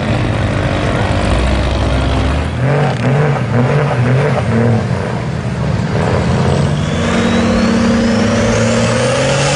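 Truck engine revving up and down in quick surges, then running on steadily with a high whine climbing in pitch near the end.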